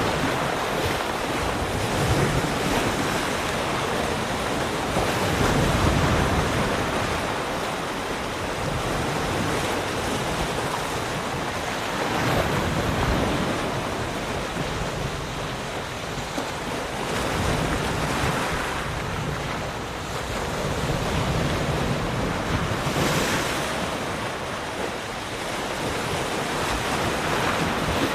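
Ocean waves breaking and washing on the shore, a continuous rush that swells and eases as each wave comes in, every four to six seconds.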